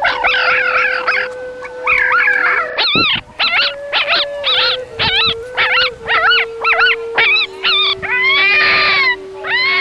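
Dog whining and howling: a rapid run of short high-pitched wavering calls, about two a second, turning into longer drawn-out howls near the end.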